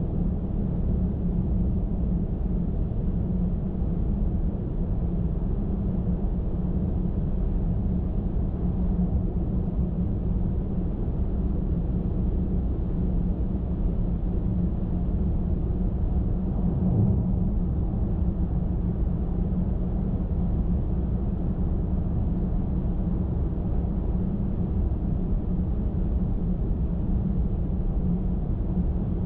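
Steady low rumble of a car travelling at highway speed: tyre and engine noise, with a brief swell a little past halfway through.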